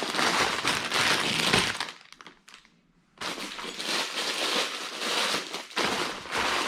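Plastic bags of LEGO pieces crinkling and rustling as they are handled and lifted out of the box, stopping for about a second partway through.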